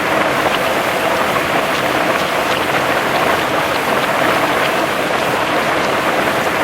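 Heavy rain falling steadily, a dense even hiss of rain on a surface with many individual drops ticking through it.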